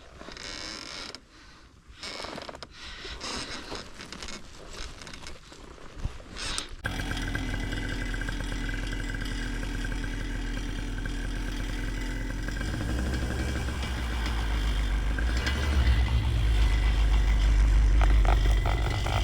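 Scraping and handling noise, then about seven seconds in a paramotor's engine comes in suddenly and runs steadily, growing louder over the last several seconds as the throttle is opened.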